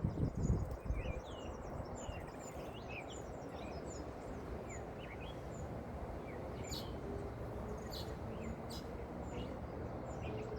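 Small birds chirping over a steady background hiss, with a low handling bump at the very start and a few light clicks about seven to nine seconds in.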